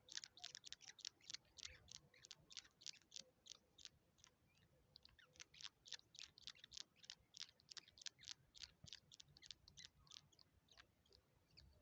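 Rufous treepies giving a rapid series of short, high clicking calls, about five a second, faint, with a brief lull about four seconds in.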